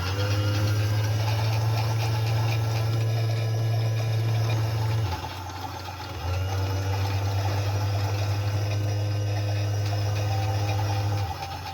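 Small washing machine's motor humming steadily in spells of about five seconds, stopping for about a second in between and starting again, the stop-start pattern of a wash cycle turning the wash.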